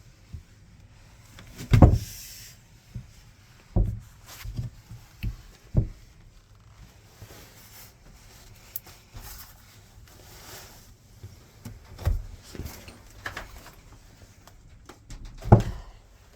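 A handful of irregular heavy knocks and thumps, the loudest near the start and near the end, with faint rustling and handling noise between them.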